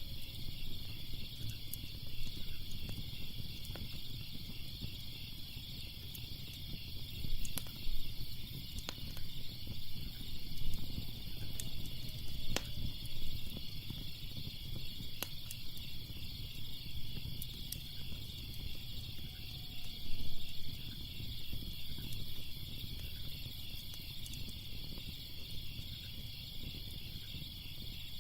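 Steady chorus of crickets chirping in a continuous high pulsing trill, over the sharp pops and crackles of a wood fire scattered irregularly through it and a low rumble.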